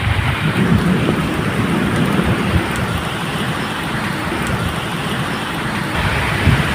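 Steady medium rain falling, with scattered drip ticks and a continuous low rumble of distant thunder underneath.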